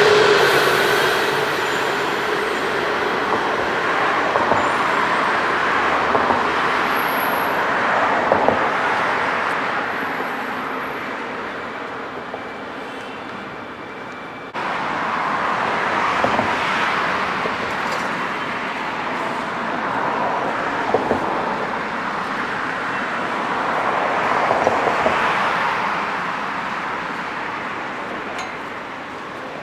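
Rushing vehicle noise that swells and fades as vehicles pass, with a few light clicks, jumping abruptly in level about halfway through.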